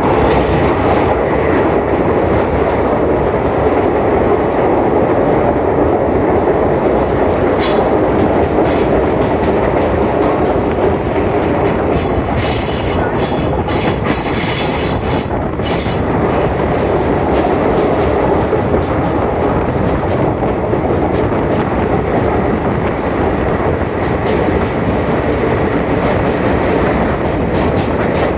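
Passenger train running along the track: a steady, loud rumble of wheels and carriages. High-pitched wheel squeal comes in briefly about eight seconds in, and again more strongly from about twelve to sixteen seconds in.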